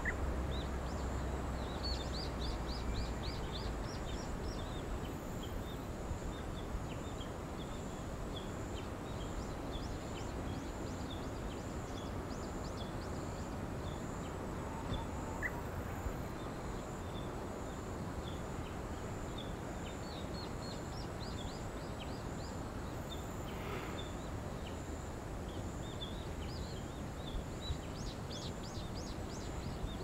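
Small birds chirping in short, quick, high-pitched series every several seconds over a steady outdoor background hiss.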